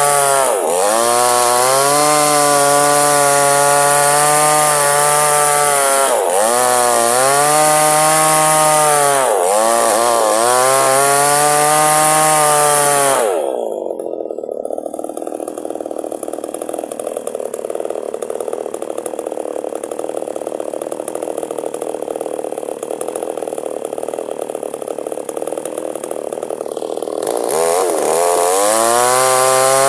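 Two-stroke chainsaw running at full throttle while splitting a log lengthwise, its pitch dipping and recovering several times as the chain bites into the wood. About halfway through it drops to idle for roughly fourteen seconds, then revs back up near the end.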